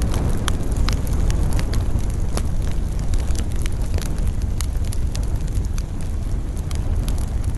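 Wood campfire burning with frequent sharp crackles and pops over a steady low rumble of flames and wind.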